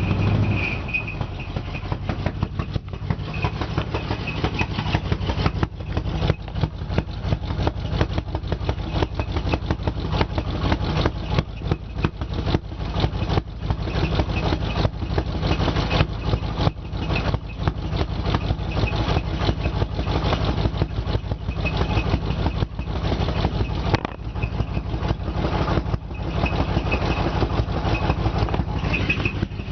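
Chevy 350 V8 with a Holley four-barrel carburettor idling in a 1987 GMC Sierra 1500 pickup, with an uneven, pulsing beat.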